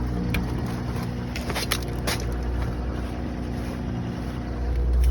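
Ford 3.0L Power Stroke V6 turbodiesel idling steadily on a cold start in sub-zero weather, with a few sharp clicks. The low rumble grows louder near the end.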